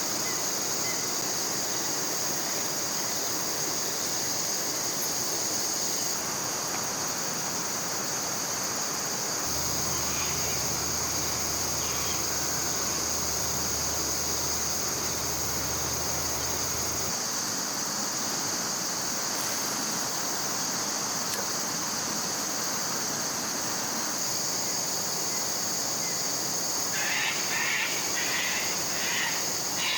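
Steady high-pitched drone of insects over an even rush of flowing river water. A low hum comes in for several seconds in the middle, and a quick run of short repeated chirps sounds near the end.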